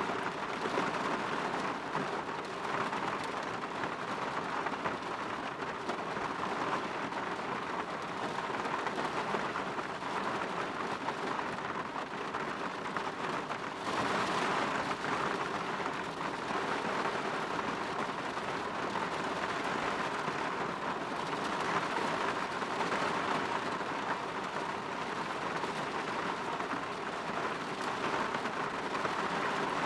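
Steady rain falling, an even hiss that grows slightly louder about halfway through.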